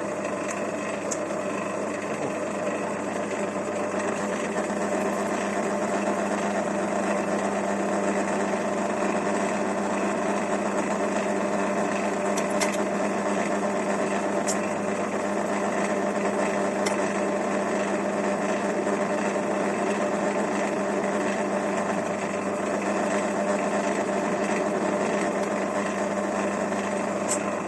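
Electric drill motor running steadily while drilling holes in a metal part, then stopping suddenly at the end.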